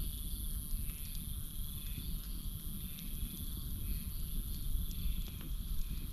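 Campfire crackling, with scattered sharp pops over a low, steady rumble. Behind it runs a night chorus of crickets and frogs: a continuous high-pitched drone and a chirping that pulses about once a second.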